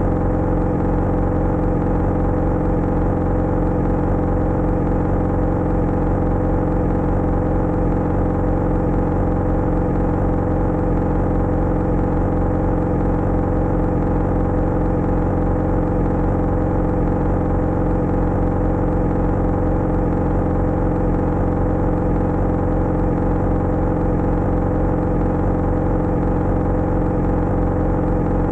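Motorcycle engine running at a steady, unchanging speed, a constant drone with no revving.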